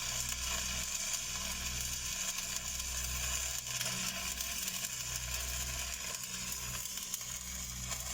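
Stick (SMAW) welding arc crackling and sizzling steadily as a downhill pass is run on large-diameter steel pipe, with a low steady hum underneath.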